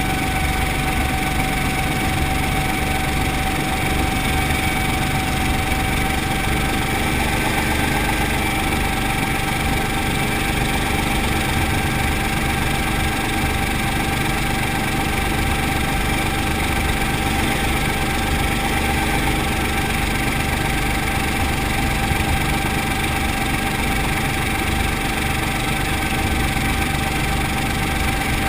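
Brantly B-2B helicopter's four-cylinder Lycoming piston engine and rotor system running steadily, a constant rumble with a steady high whine over it.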